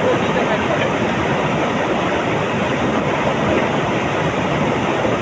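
Waterfall pouring close by: a steady, even rushing of falling water.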